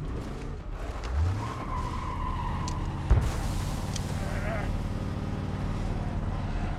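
A car engine revs up as the vehicle pulls away with a brief tire squeal. A sharp thump comes about three seconds in, then the engine runs on steadily.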